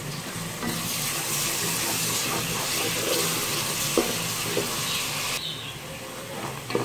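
Chopped onions and ginger-garlic paste sizzling in hot oil in a metal pot as a spatula stirs them, with a couple of soft knocks of the spatula against the pot. The sizzle swells about a second in and eases back near the end.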